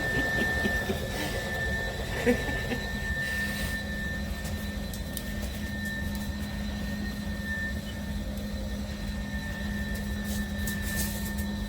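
Cordless dual-motor electric spin mop running, a steady motor whine with its spinning pads on the floor, and a single sharp knock about two seconds in.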